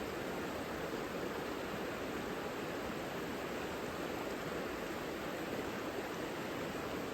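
The Savica river flowing: a steady, even rush of water with nothing else standing out.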